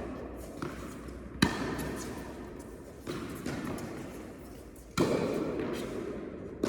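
Tennis ball being struck by rackets and bouncing on an indoor court during a rally: three main sharp knocks about a second and a half to two seconds apart, with a few lighter ones between, each ringing on in the hall's echo.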